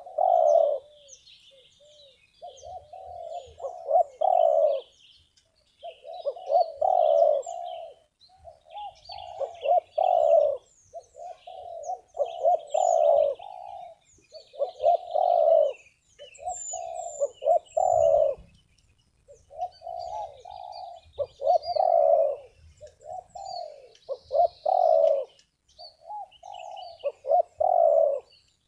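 Spotted dove (terkukur) cooing its crisp, sharp phrase over and over, a phrase every two to three seconds. Faint chirping of small birds sounds in the background.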